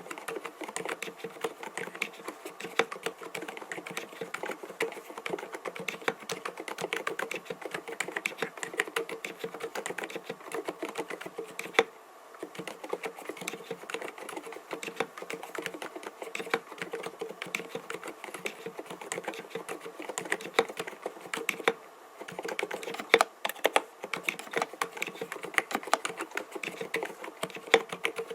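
Continuous fast typing on an mStone Groove T 87A mechanical keyboard fitted with silent (low-noise) Milky linear switches, giving soft, muted keystrokes. It pauses briefly twice, with a few louder strokes, likely the space bar or a larger key.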